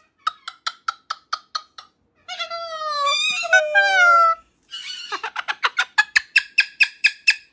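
Pet parrot calling: a quick run of about ten short pitched clicks, then drawn-out calls that slide up and down in pitch, then a faster rattling series near the end.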